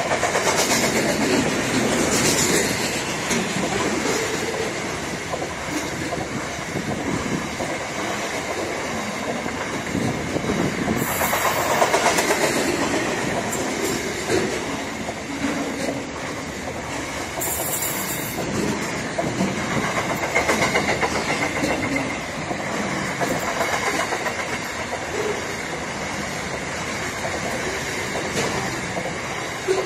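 Freight train of container wagons rolling past at close range, its wheels running steadily over the rails. Two brief bursts of high hiss cut in, about a third of the way through and again just past halfway.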